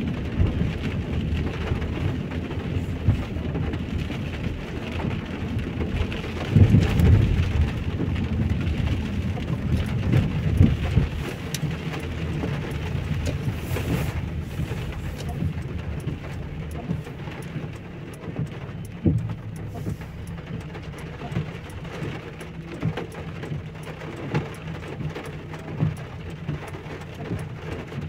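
Heavy rain falling steadily, with many small drop ticks. A low rumble runs under it for roughly the first third, then eases.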